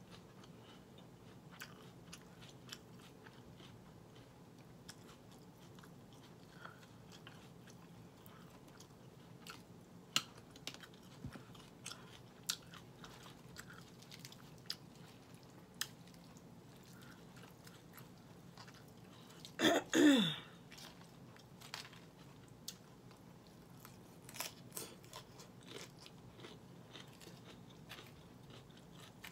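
Close-up chewing and crunching of romaine Caesar salad, with scattered sharp clicks of a fork against a glass bowl as the salad is tossed. About two-thirds of the way through comes a short, loud voiced sound that falls in pitch.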